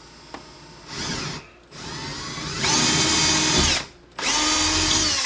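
Power drill drilling pilot holes in wood, in three bursts: a short one about a second in, a longer one that gets louder partway through, and a third near the end.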